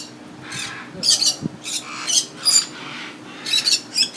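Pet parrots calling: a series of short, high-pitched squawks and whistles, about seven in quick succession, over a faint steady hum.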